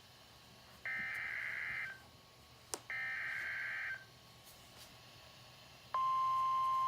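NOAA Weather Radio SAME alert data: two harsh, roughly one-second digital bursts, each about a second apart, repeating the coded header of a tornado watch. About six seconds in, the steady 1050 Hz warning alarm tone begins.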